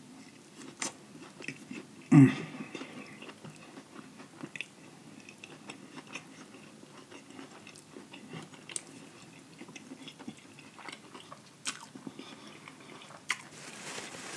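Close-miked biting and chewing of a fried chicken sandwich: lip smacking and many small wet mouth clicks. About two seconds in there is a short, loud, low vocal sound from the eater that falls in pitch.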